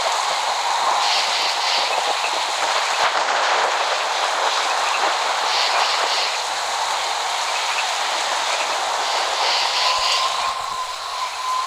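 Steady heavy rain falling, an even hiss with no thunder. A thin whistling tone comes in near the end.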